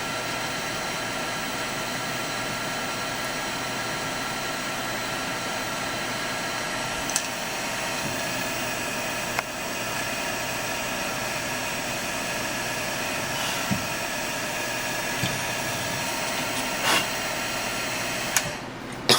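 Milling machine running steadily, its motor and spindle giving a constant whine made of several steady tones, with a few faint ticks.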